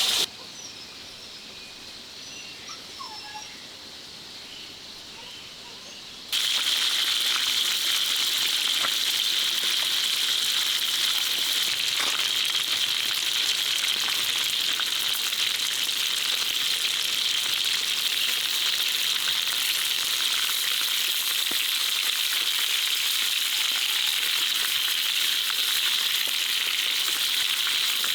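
Food sizzling in a hot pan, a steady hiss that cuts in suddenly about six seconds in. Before it come quieter forest sounds with a few faint bird calls.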